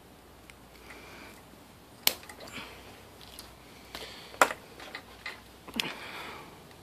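Handling noise from wiring parts being worked by hand: a few sharp clicks, the loudest about two seconds in and just after the middle, with smaller ticks and short rustles between.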